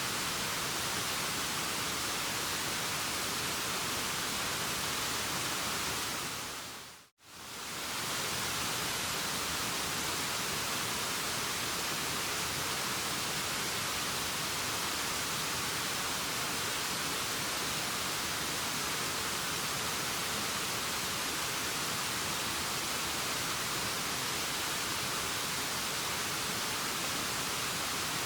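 Waterfall rushing, a steady even hiss that is brightest in its upper range. About seven seconds in it fades to silence for a moment and comes straight back.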